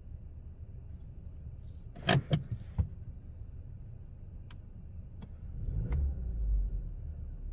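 Sharp clicks and knocks in and around a car, a quick cluster about two seconds in and a few fainter single ones later, over a steady low hum; about six seconds in a low rumble swells up.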